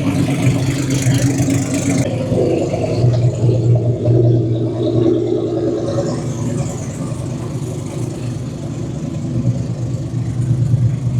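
Drag cars' engines idling with a steady low rumble, the pitch shifting slightly about two seconds in.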